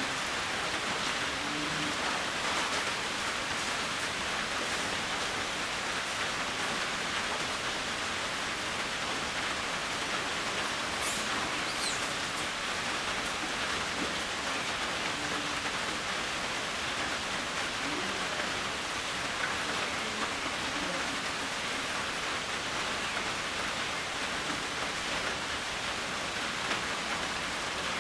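Steady rain, a dense even hiss without a break.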